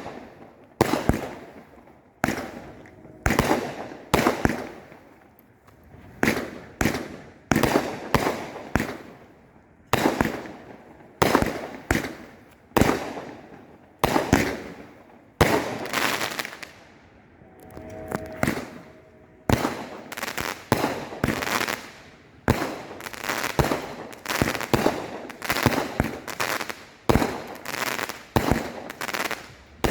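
Bee Sting and Optimus Explosion 27-shot consumer firework cube cakes, chained together, firing shot after shot: a string of sharp bangs, each trailing off. The shots come about one a second, pause briefly around the middle, then quicken to about two a second toward the end.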